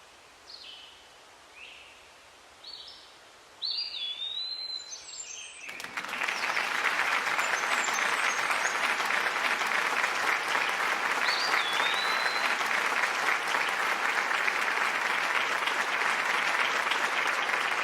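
Short high chirps from baby robins, about one a second, then a longer swooping chirp. About six seconds in, a loud steady crackle like applause starts suddenly and carries on, with one more chirp heard through it.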